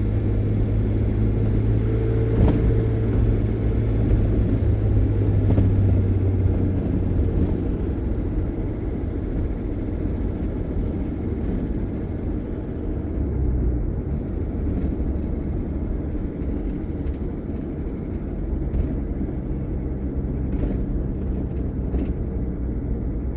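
Engine and road rumble of a vehicle driving on a city street, heard from inside the cab. A steady low engine hum fades out about seven seconds in, leaving an even tyre-and-road rumble.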